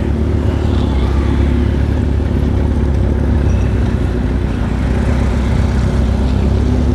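Yamaha XJ6 600 cc inline-four motorcycle engine running at a steady pace while being ridden.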